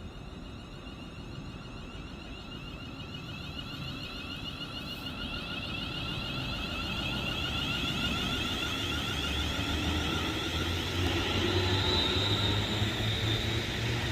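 Train approaching the platform, growing steadily louder, with a high, slightly pulsing whine over a low hum that strengthens in the second half.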